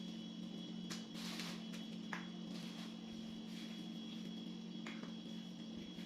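Faint kitchen handling noises: a few short rustles and scrapes, a second or so apart, over a steady low electrical hum.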